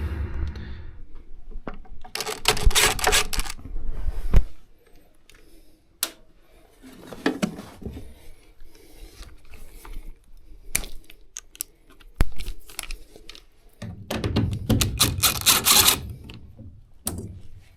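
Clicks, knocks and scrapes of hands and tools working on a furnace, with two louder stretches of rushing, rustling noise, one about two seconds in and one near the end.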